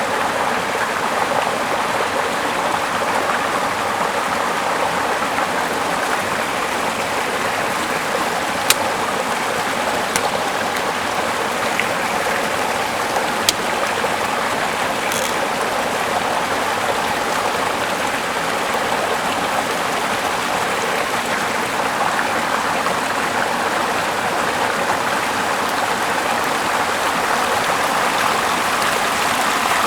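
A small river flowing steadily over rocks, a constant rushing and babbling of water. A few sharp clicks stand out briefly in the first half.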